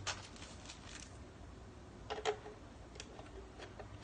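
Faint clicks and taps of a small screwdriver and the plastic base of a figure stand being handled as the screw on its battery cover is undone; the loudest click comes about two seconds in, another about a second later.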